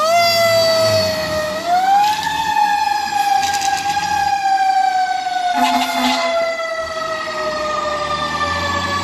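Fire apparatus siren rising in pitch, then slowly winding down. A short horn blast comes about six seconds in.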